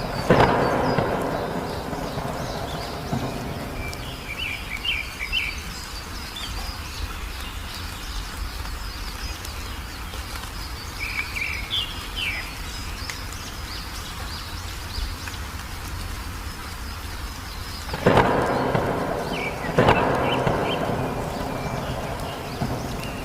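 Thunderstorm with steady rain hiss and three sudden thunderclaps that fade out, one right at the start and two near the end. Short bursts of songbird chirping come in between.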